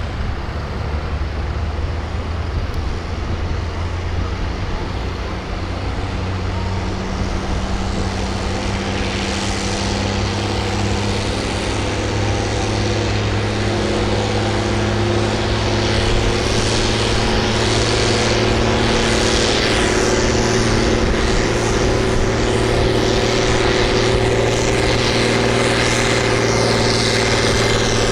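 Farm tractor engine running hard under load while pulling a weight-transfer sled, a steady low engine note that grows gradually louder.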